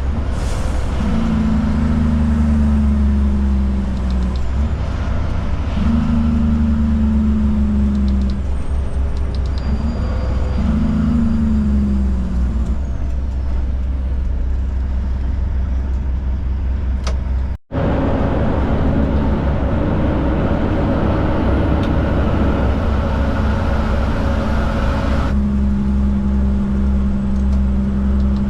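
Cab-over Kenworth K200 truck's Cummins diesel engine running at highway speed, heard as a steady low drone from the cab. A pitched engine note comes in for a couple of seconds at a time, sagging slightly in pitch. The sound drops out abruptly for a moment a little past halfway.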